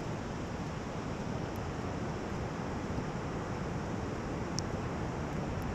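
Steady rush of wind and breaking surf, with wind buffeting the microphone.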